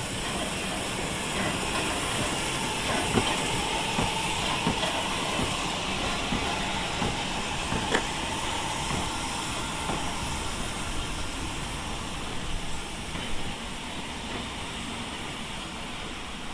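Steam locomotive giving off a steady hiss of steam, with a few sharp metallic clicks.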